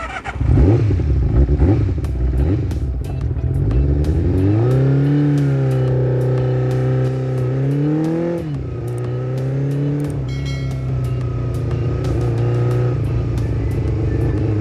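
Motorcycle engine pulling away: it revs up about four seconds in and holds a steady pitch, rises and drops briefly about eight seconds in, then runs on steadily.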